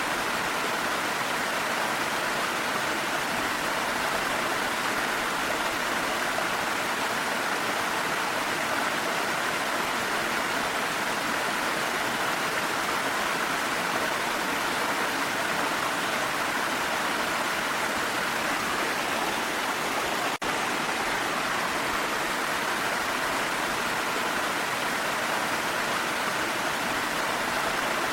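Steady rushing of a waterfall with rain, an even unbroken water noise, with a split-second dropout about twenty seconds in.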